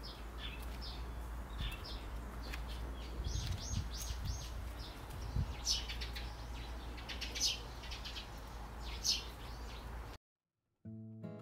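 Birds chirping, with many short high chirps and calls over a steady low rumble. The birdsong cuts off abruptly near the end, and plucked acoustic guitar music starts.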